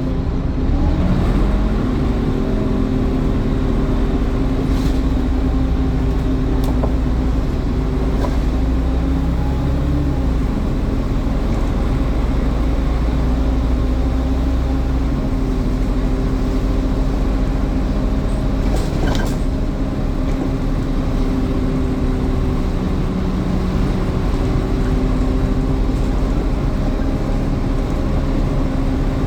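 Scania N230UD Omnicity double-decker bus heard from on board while driving: engine running with the steady whine of its cooling fans, rising briefly about a second in and then holding level, with a few faint clicks and rattles.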